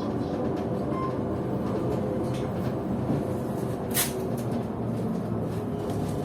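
Steady running rumble and rattle heard inside a moving PKTS-6281.01 "Admiral" trolleybus, with a sharp click about four seconds in.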